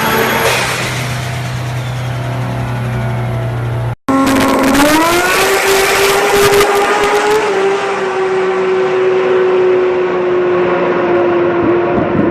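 Big-turbo Toyota Supra engine running at high revs under hard acceleration. About four seconds in the sound breaks off. It comes back with the revs climbing quickly, then holds one steady high engine note with a rushing noise for several seconds.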